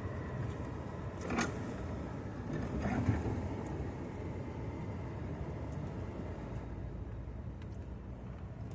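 Vehicle engine running steadily as it is driven along a snowy trail, with a couple of short knocks about a second and a half and three seconds in.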